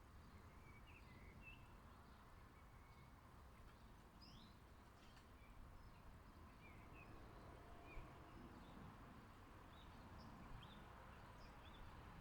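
Faint, scattered chirps and short whistled notes of small garden birds, several a second at times, over low steady background noise.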